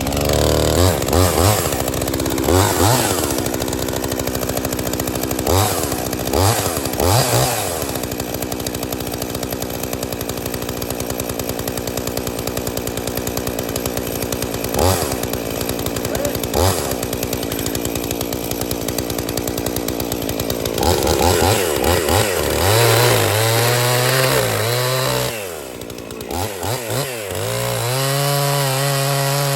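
A Husqvarna 55 two-stroke chainsaw running with a freshly sharpened chain. It is revved in several short blips, then settles into a lower, steady, strongly pitched note for the last third, dipping briefly about four seconds from the end.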